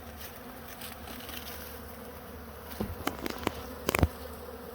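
A honeybee swarm buzzing steadily. Several sharp clicks and knocks come in a cluster about three to four seconds in, the loudest near the end.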